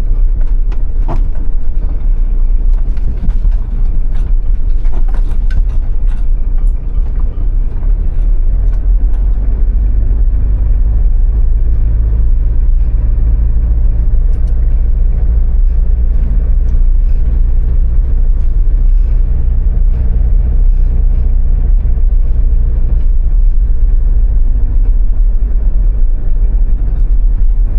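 Motorhome engine running as it drives slowly, heard as a heavy low rumble from inside the cab; the engine note strengthens from about ten seconds in and eases off near the end, with a few light clicks and knocks early on.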